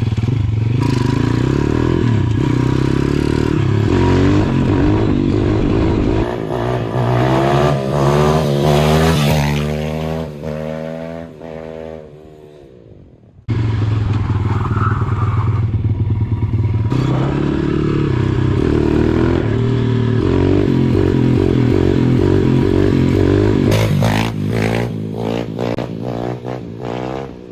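A four-stroke pit bike engine running and revving during wheelie attempts. Around halfway through, its note falls and fades away. It then cuts back in suddenly and runs loud again, tapering off near the end.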